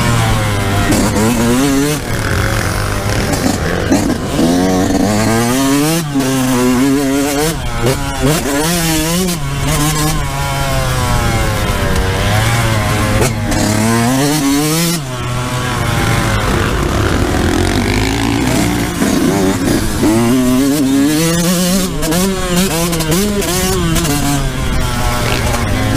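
Yamaha YZ125's 125cc two-stroke single-cylinder engine being ridden hard on a motocross track, its pitch climbing and dropping again and again as the rider accelerates, shifts and backs off the throttle.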